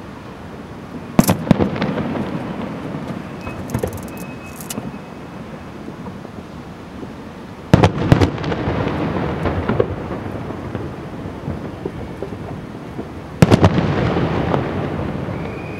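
Aerial firework shells bursting in three volleys about six seconds apart, each a cluster of sharp booms followed by a long rumbling echo that fades over a few seconds.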